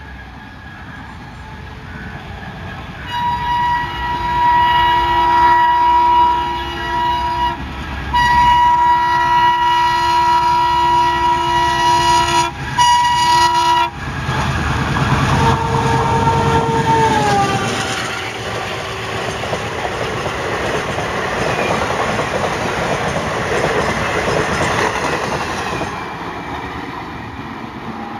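Indian Railways express train approaching at speed and sounding its horn in long blasts, a long one, then another, then a short one. The horn's pitch drops as the locomotive passes, and the coaches go by with a loud rushing rattle that fades near the end.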